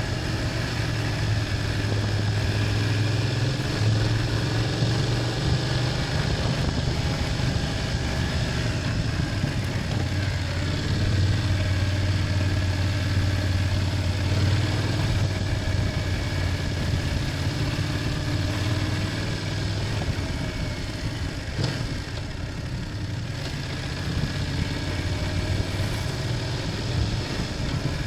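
BMW F800GS parallel-twin engine running under way, its revs rising and easing gently through the curves. It goes a little quieter for a few seconds about three quarters of the way through, then picks up again.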